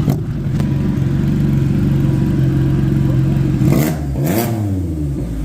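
Motor vehicle engine running steadily under way, with a brief dip and rise in pitch about four seconds in.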